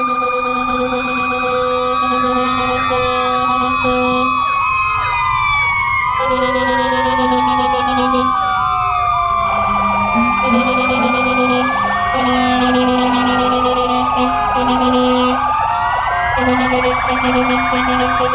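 Several emergency-vehicle sirens sounding at once, overlapping wails rising and falling in pitch, with a fast warbling yelp in the first few seconds. Under them a steady low horn tone sounds in long blasts with short breaks.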